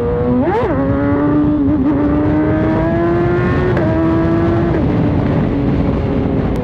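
Inline-four 600-class sport bike engine under way at road speed, heard from the rider's seat over wind rush. It gives a quick rev spike about half a second in, then a steady drone that climbs slowly in pitch.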